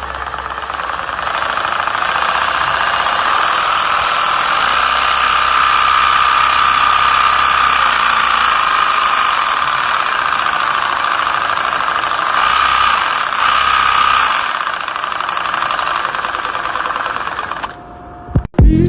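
An engine running steadily and loudly, a dense mechanical noise, cutting off suddenly near the end.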